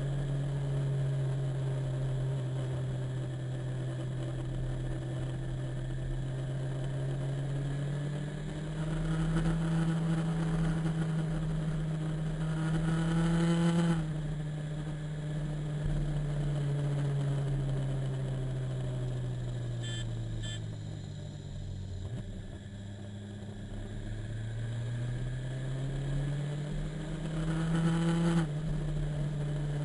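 Motorcycle engine under way, its pitch climbing with speed and then dropping suddenly twice as it shifts up a gear, with an easing off and pick-up in between. Two short beeps sound about two-thirds of the way through.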